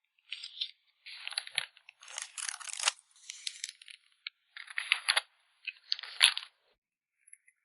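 Photocard packing materials being handled: short bursts of crinkling plastic with sharp little clicks, coming in a string of handling movements with brief pauses between.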